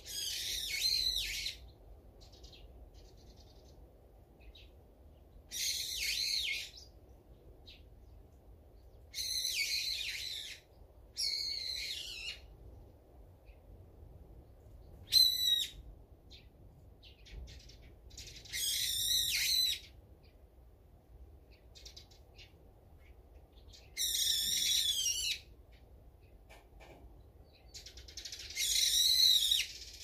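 Songbird calling in phrases about a second long, repeated every few seconds, eight times in all, with one short sharp call about halfway through.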